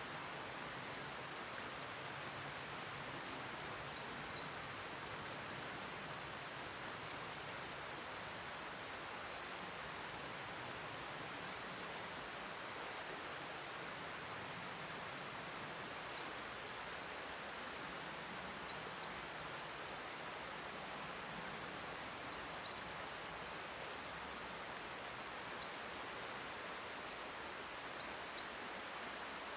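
Steady outdoor background hiss with a small bird chirping over it, short high single or double chirps repeating every two to three seconds.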